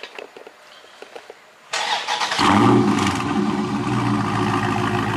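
Car engine warm start: a few light clicks, then the starter cranks briefly a little under two seconds in, the engine catches and flares, and it settles into a steady idle.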